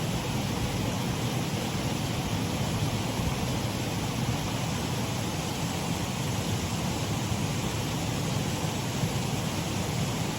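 Water pouring over a shallow waterfall on a stream: a steady, even rushing.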